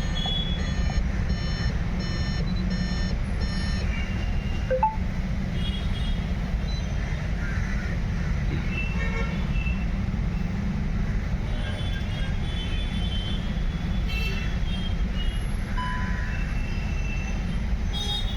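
Steady low mechanical rumble throughout, with faint high electronic beeps repeating about twice a second in the first few seconds.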